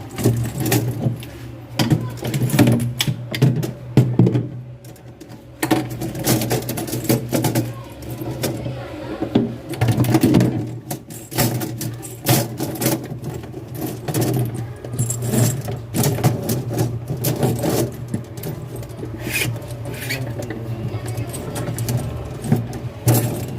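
Irregular clicks and knocks of handling and work over a steady low hum.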